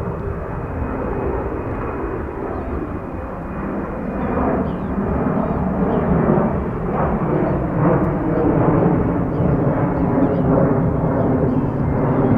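Jet airliner engines running, a deep rumble with a steady hum that swells gradually louder.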